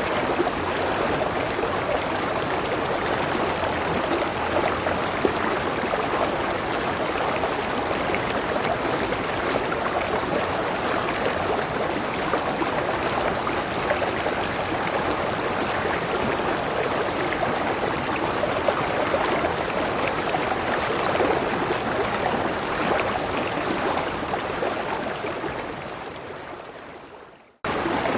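Steady rushing and gurgling of a clear river's flowing water. Near the end it fades away to silence and then cuts back in abruptly at full level.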